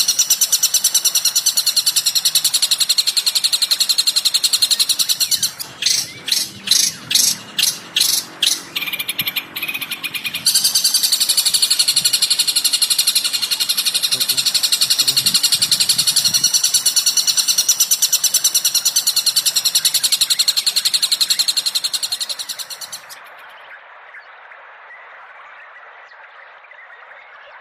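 Recorded songbird calls for training a caged bird: a dense, rapid, high-pitched chattering. About six seconds in it breaks into around nine separate sharp calls, roughly two a second, then the chattering resumes and fades to a faint hiss near the end.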